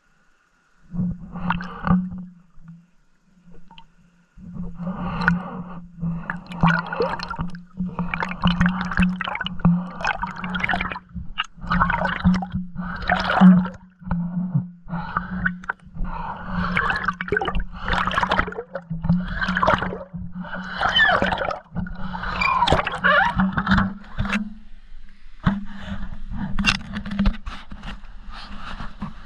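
Water gurgling and bubbling around a camera submerged in a stream pool, in irregular surges that start a second in, pause briefly, then run on continuously, over a steady low hum.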